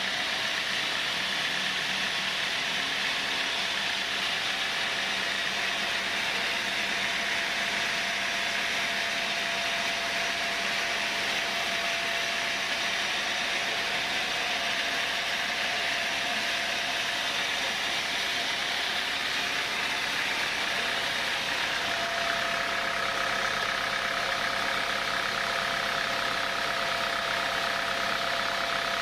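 Sawmill saw running steadily through timber, a constant machine noise with a steady whine that changes pitch about two-thirds of the way through.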